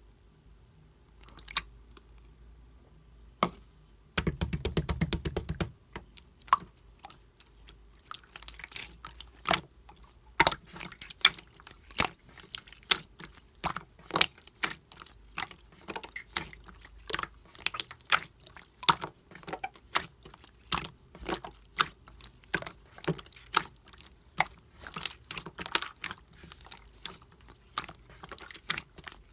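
Clear slime being squished and worked by hand, giving sharp sticky clicks and pops, several a second, that grow denser after the first several seconds. About four seconds in there is a short, fast crackle lasting under two seconds.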